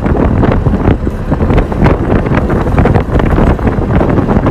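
Strong wind buffeting the microphone: a loud, uneven low rumble with frequent gusting thumps.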